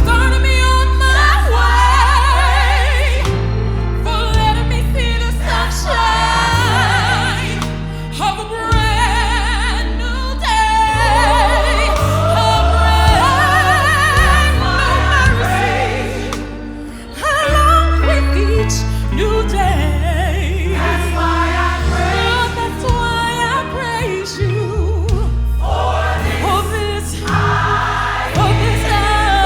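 Gospel choir singing with vocal runs over a band with heavy bass.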